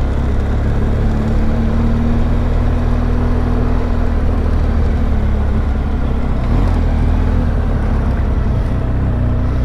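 BMW R1200GS boxer-twin engine running steadily as the motorcycle is ridden, with wind noise on the microphone.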